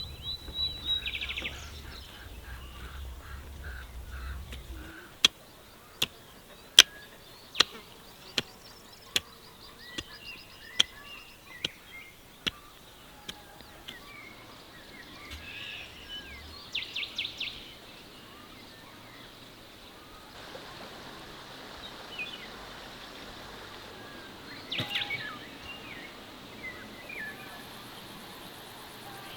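Birds chirping in the open air, with a run of about ten sharp knocks, a little under a second apart, in the first half.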